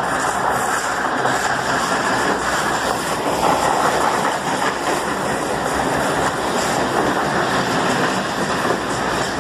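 CNR 3000-series electric commuter train running alongside the platform: a loud, steady rumble of steel wheels on the rails.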